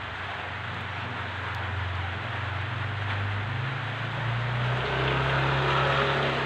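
A motor vehicle's engine running: a low hum over a steady hiss. The hum shifts pitch about four seconds in and grows a little louder toward the end.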